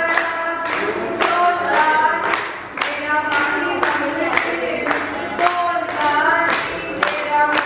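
A group singing together without instruments, clapping along in time about twice a second.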